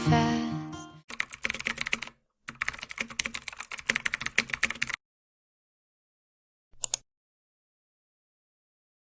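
Rapid keyboard typing clicks in two runs, the first about a second long and the second about two and a half seconds, as music fades out. A brief short sound follows a couple of seconds later.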